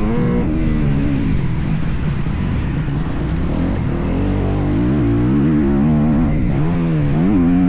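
Motocross dirt bike engine being ridden hard, its pitch climbing and dropping over and over as the throttle is opened and closed.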